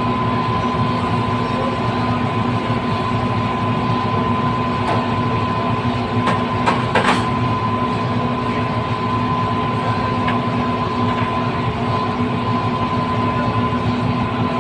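Steady mechanical rumble and noise with a constant hum, broken by a few short clicks about six to seven seconds in.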